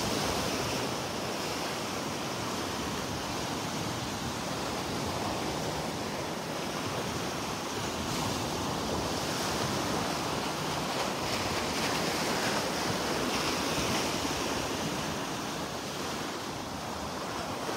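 Rough Gulf surf breaking and washing steadily onto the beach, with some wind.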